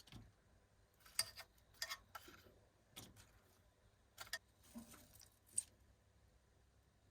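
Irregular light clicks and taps of small hard objects, about seven over several seconds, with quiet between them.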